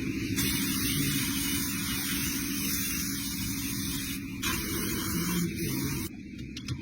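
Factory machinery running with a steady low hum and a loud hiss like compressed air or spray. The hiss cuts off sharply near the end.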